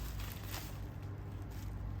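Quiet handling of parcel packaging: a soft rustle and a light tap about half a second in, over a steady low hum.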